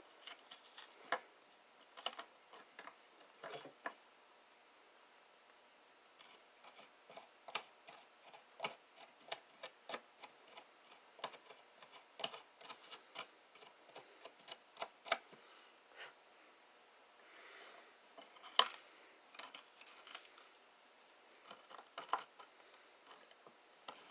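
Faint, irregular clicks and taps of small metal tools and silver pendant parts against a soldering pad, with a brief scrape about two thirds of the way through.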